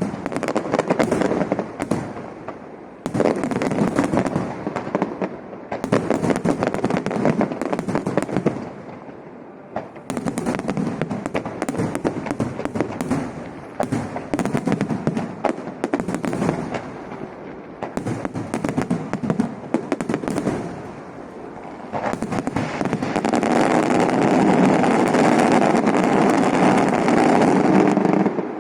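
Aerial fireworks display: a dense, unbroken barrage of crackling bangs coming in waves, thickest and loudest over the last five seconds, then stopping abruptly.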